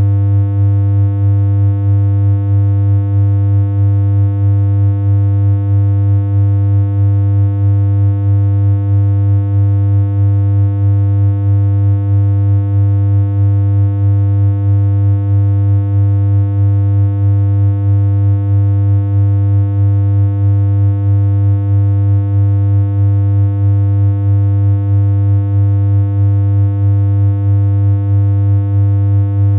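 Steady synthesized electronic hum: a loud low drone with a ladder of higher overtones, holding one pitch without change, with a slight regular wobble in loudness.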